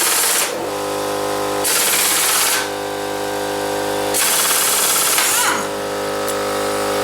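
Impact wrench hammering in three short bursts as it breaks loose and spins off bolts on a Yamaha SRX 600 snowmobile engine. A steady machine hum runs under and between the bursts and grows slowly louder.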